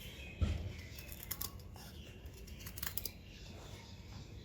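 A soft thump followed by a few light, scattered clicks and taps as a folding knife is handled.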